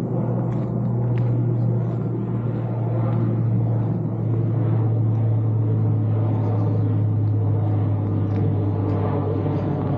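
Steady low drone of an engine or motor: a strong hum with a ladder of even tones above it, building up over the first second and then holding level.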